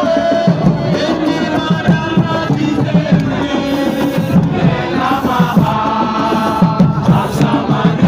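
Crowd of football supporters chanting and singing together over a steady drumbeat.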